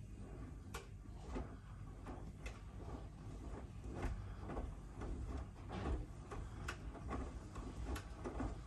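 Miele W1 front-loading washing machine running: a steady low rumble with irregular clicks and knocks as the drum turns.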